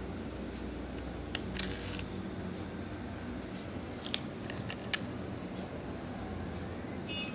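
Scattered sharp clicks and taps of tools and hard plastic or metal parts being handled while a computer is taken apart, over a steady low hum. There is a single click, then a short rattle of clicks, and about two seconds later four quick clicks.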